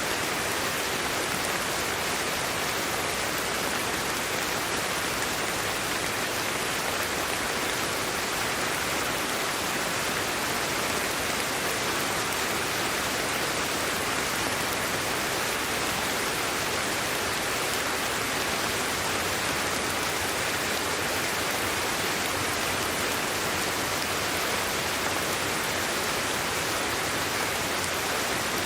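Steady sleep-aid white noise: an even, unchanging hiss with no breaks or events.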